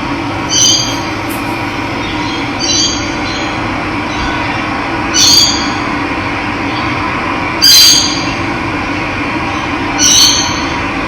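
Running water with a bird's call repeated five times, about every two and a half seconds. Each call is short and high, with several pitched bands, and is the loudest thing heard.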